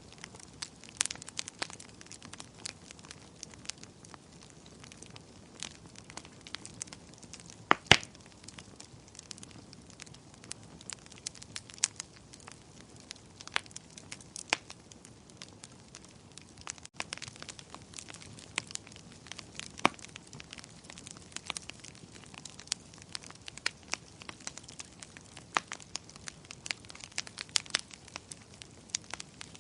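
Fire crackling: irregular sharp pops and snaps over a faint low hiss, with one louder pop about eight seconds in.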